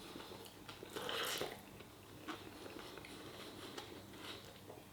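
A person chewing food, faint, with a louder patch of mouth noise about a second in.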